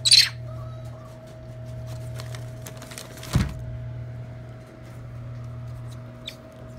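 Steady electric hum of a space heater running. A sharp short noise sounds right at the start, and a thump about three and a half seconds in.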